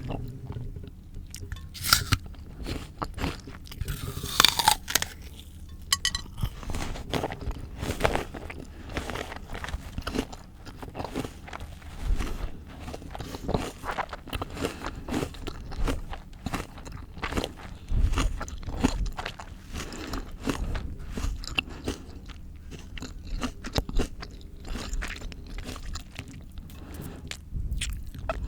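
Close-miked crunching and chewing of raw fruit and vegetables: irregular crisp bites and steady crunchy chewing, with a few louder bites along the way.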